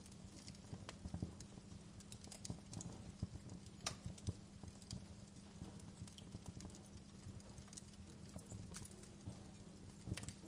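Fireplace fire crackling: irregular sharp pops and snaps at uneven spacing, with one louder snap about four seconds in, over a steady low background.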